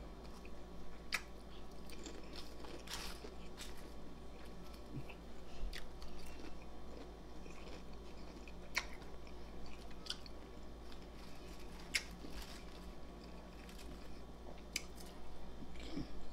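A person chewing and biting crunchy chips close to the microphone, with a sharp crunch every couple of seconds.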